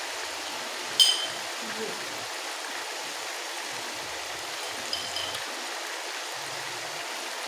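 Potato and masala curry sizzling and bubbling in a large metal pot: a steady hiss. A sharp metallic clink rings out about a second in, with a fainter one near five seconds.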